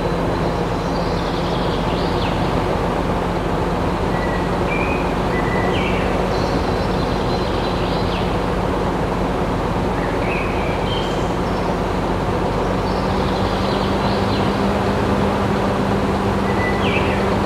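A small motor running steadily with a constant hum and even noise, and a few short high chirps now and then.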